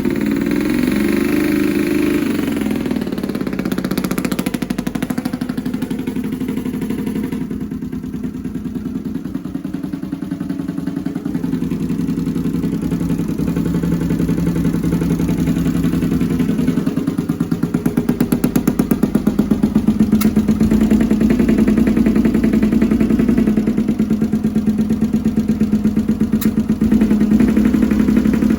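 Honda CX500 V-twin motorcycle engine, fitted with Mikuni carburettors, running with a misfire on the right cylinder. It grows louder a little past halfway through.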